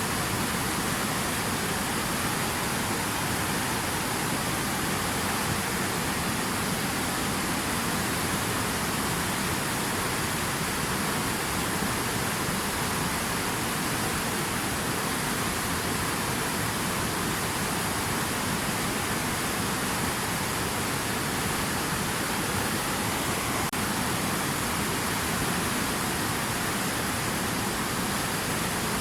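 Steady rush of water, an even noise with no breaks or separate drops.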